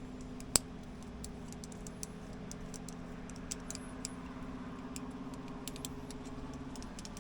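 Climbing hardware clicking and clinking as a rappel is rigged: carabiners and metal gear tapping together in scattered small clicks, with one sharp click less than a second in, over a steady low hum.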